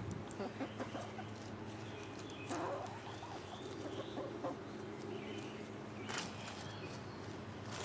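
Faint clucking of a bird, with a few soft knocks or rustles about two and a half and six seconds in.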